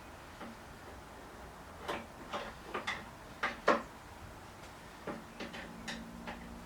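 Small metal hand tools clicking and knocking as they are handled and swapped, an irregular string of light clicks with one sharper knock in the middle.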